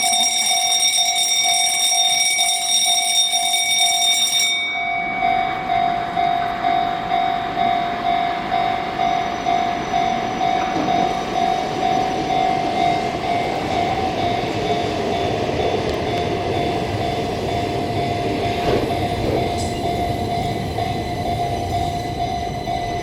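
A Keihan Keishin Line train passing a level crossing: the crossing's warning bell rings with an even, pulsing tone about twice a second throughout, while the train's running noise rises about five seconds in and continues. A high tone stops abruptly about four and a half seconds in.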